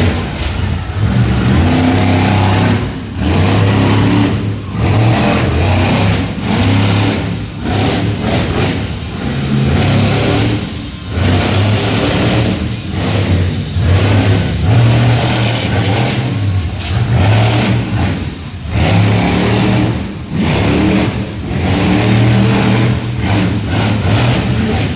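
Monster truck engine revving hard over and over. The throttle opens and closes every second or two, so the loud engine note keeps surging and dropping.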